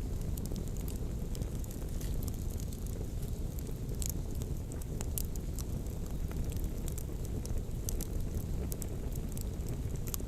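Wood campfire crackling with scattered sharp pops, over a steady low rumble of wind on the microphone.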